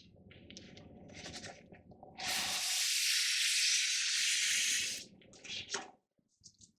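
Packaging being handled as the machine is unpacked: faint rustling, then from about two seconds in a steady hiss of paper or plastic sliding for about three seconds, and a couple of short rustles after it.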